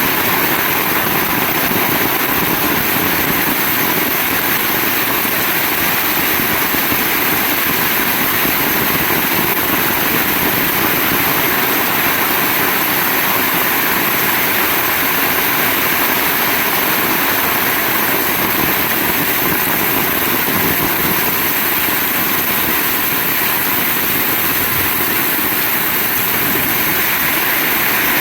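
Heavy rain falling steadily, an even, unbroken hiss with no let-up or gusts.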